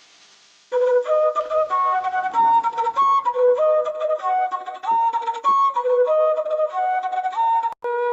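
Background music: a flute playing a slow stepwise melody, starting about a second in after a moment of faint hiss.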